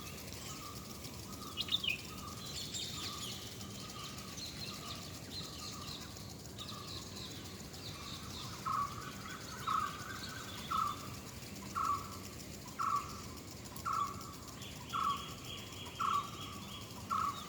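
Wild songbirds calling: one bird repeats a short note about once a second, growing louder in the second half, over scattered higher chirps from other birds.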